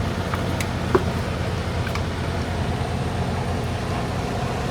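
Semi-truck diesel engine running steadily in fifth gear, heard from inside the cab, with a few light clicks in the first couple of seconds.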